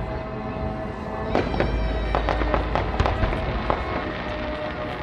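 Fireworks going off in a quick run of sharp crackling bangs from about a second and a half in until nearly four seconds, over music playing.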